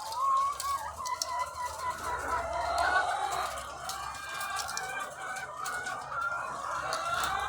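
A large flock of egg-laying hens clucking and calling at once, many overlapping voices blending into a dense, continuous chorus.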